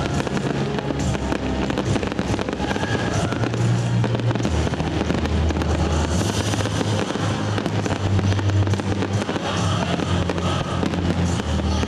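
Fireworks bursting and crackling continuously, over music with held low bass notes.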